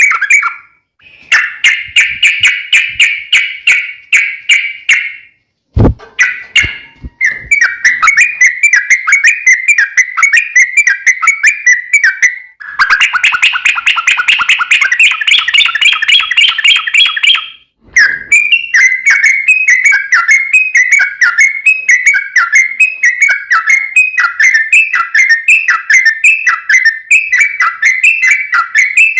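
Yellow-vented bulbul (trucukan) singing a long, rapid rolling chatter of repeated sharp notes in runs of several seconds, with short breaks between runs. There is a single sharp click about six seconds in.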